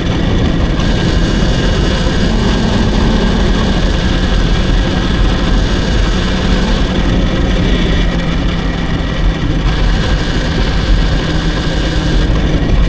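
Wind rushing over the microphone while riding an electric dirt bike, with a low hum underneath that shifts slightly in pitch partway through.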